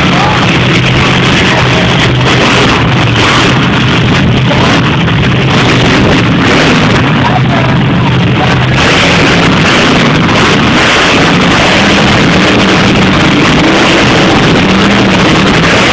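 Monster truck engines running loud and steady in an arena, a deep droning engine note over a heavy rush of noise that stays near the recording's limit throughout.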